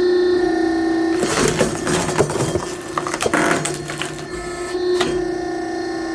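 Mechanical clattering and rattling, a dense run of quick irregular clicks, from about a second in until about five seconds in, over steady background music.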